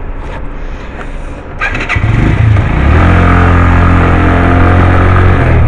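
A 125cc single-cylinder motorcycle engine ticking over, with a couple of sharp clicks, then revving up about two seconds in and running steadily loud as the bike moves off.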